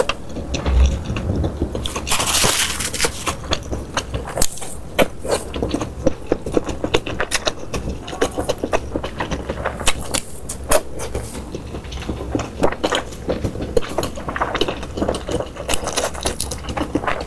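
Close-miked eating sounds: chewing and crunching food, with many sharp, irregular clicks and smacks.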